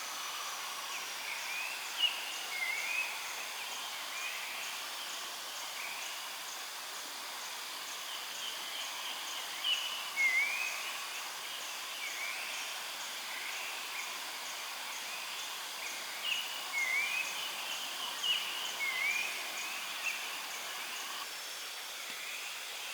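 Forest ambience: birds repeat short rising chirps over a steady hiss, while an insect pulses faintly and evenly in the background.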